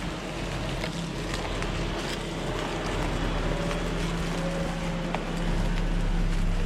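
Suzuki Jimny 4WD driving along a rough forest track: a steady engine hum with scattered clicks and knocks, a little louder near the end.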